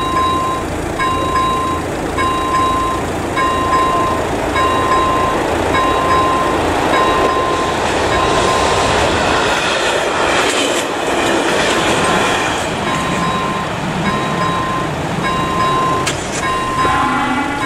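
Level-crossing warning bell (AŽD ZV-01 electronic bell) ringing about once a second while a passenger train runs over the crossing. The train's wheel and rail noise swells in the middle and partly drowns the bell.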